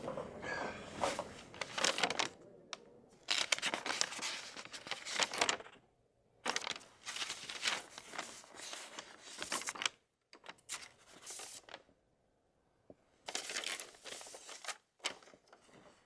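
Rustling and crinkling in about five spells of a second or two each, with short quiet gaps between them.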